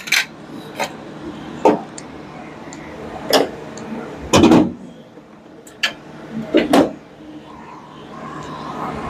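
Hand tools and small metal parts being handled, giving about eight scattered clicks and knocks over several seconds, with a longer clatter about four and a half seconds in.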